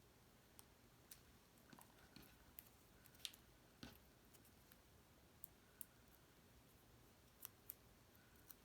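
Scissors snipping in faint, scattered, short clicks, about a dozen, the loudest about three and four seconds in, over near silence.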